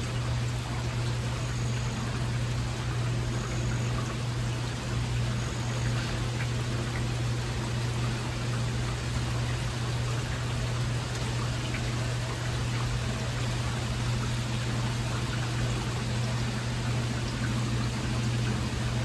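Heavy rain falling steadily in a thunderstorm: an even, unbroken hiss with a steady low hum underneath.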